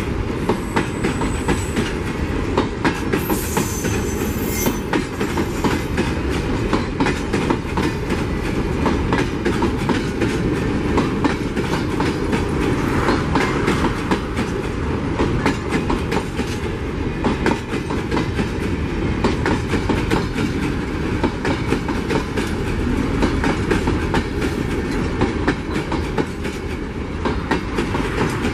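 Freight train of empty steel mining hopper wagons rolling past, wheels clacking steadily over the rail joints with a continuous rumble. A brief high-pitched wheel squeal comes about three to four seconds in.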